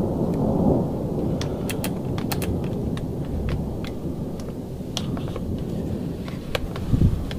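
Thunder rolling and slowly dying away, a deep rumble, with scattered sharp ticks of rain or graupel striking nearby surfaces.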